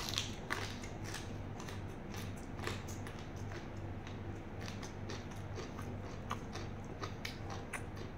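Close-up chewing of a mouthful of raw beef koi salad: scattered wet mouth clicks and smacks, over a steady low hum.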